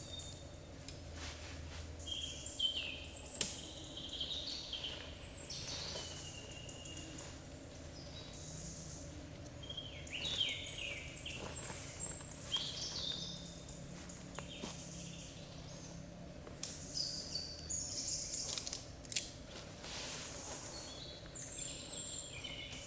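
Birds calling, with many short high chirps and whistled notes throughout, over a steady low background, with scattered sharp crackles like a campfire popping.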